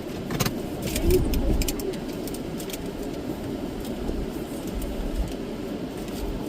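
Car engine idling with a steady low rumble, with a few short light clicks and rattles in the first two seconds.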